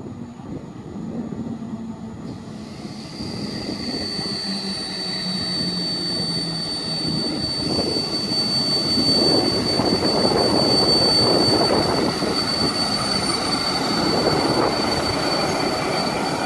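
PKP Intercity EP09 electric locomotive hauling a passenger train, approaching and running past at speed. The rumble of wheels on rail grows louder as it nears, with a steady high whine from about three seconds in.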